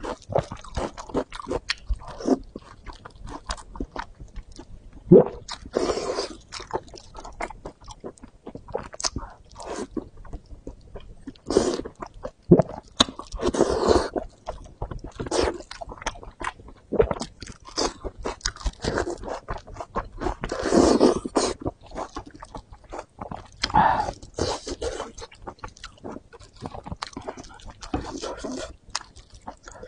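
Close-miked chewing and biting of braised fatty pork belly: irregular wet mouth sounds and bites, with a few longer, louder stretches of chewing.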